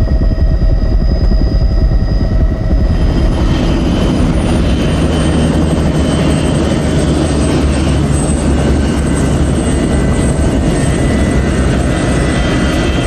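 Helicopter in flight, its rotor and engine running steadily. From about three seconds in, a faint high whine falls in pitch and then holds steady.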